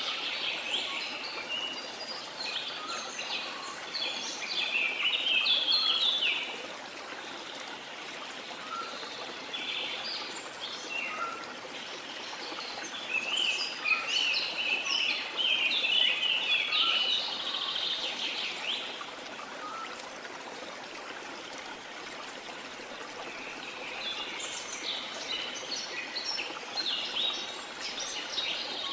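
Several birds singing and chirping in bursts, three bouts of dense song with quieter gaps between, over a steady rush of running water.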